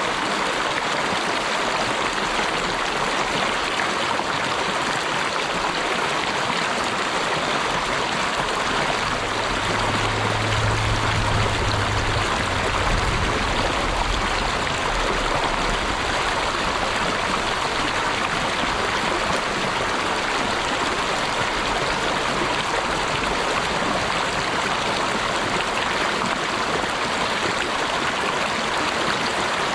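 Running water of a stream flowing in a steady, even rush. A faint low hum joins it for a few seconds about ten seconds in.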